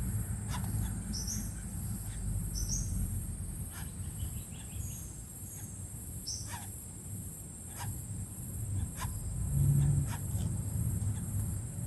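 Short, high bird chirps at irregular intervals over a steady high-pitched insect drone, with a low rumble underneath.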